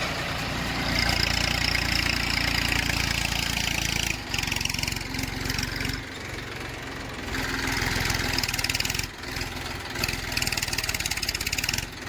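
Heavy diesel engine running steadily, its note swelling and easing with several short dips in loudness.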